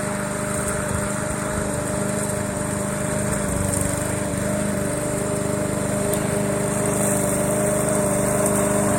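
Push lawn mower engine running steadily under a remote-controlled drive, its pitch holding even while it cuts grass.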